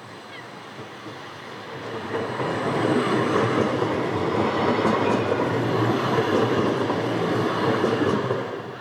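A tram running past on its rails: the running noise builds about two seconds in, stays loud for several seconds, then falls away near the end.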